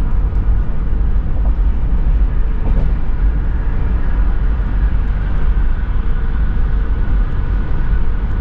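Steady low rumble of road and engine noise inside a Toyota 4Runner's cabin while driving.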